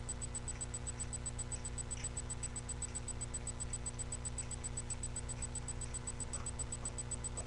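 Steady low electrical hum with a fast, even, high-pitched ticking: the noise floor of a webcam microphone, with a couple of faint small handling sounds.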